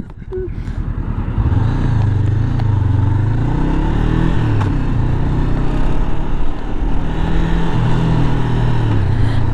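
Motorcycle engine running while riding, its note rising and falling as the speed changes, over a steady rush of wind noise on the helmet microphone.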